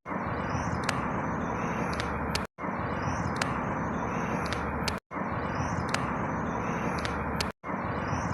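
Outdoor ambience of steady rushing noise with faint high chirps over it. The same short stretch repeats about every two and a half seconds, cutting out to silence for a split second between repeats.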